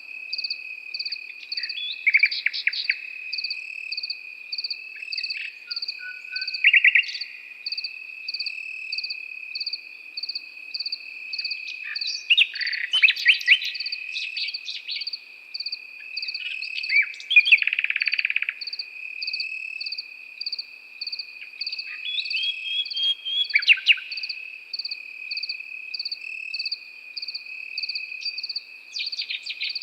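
Nightingale singing in short, varied phrases with rapid trills every few seconds, over crickets: a continuous high insect trill and a cricket chirping in a steady pulse about twice a second.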